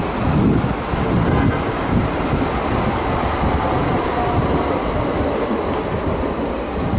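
Red-and-white SBB electric regional multiple unit running past along the station tracks: a steady rumble of wheels on rail.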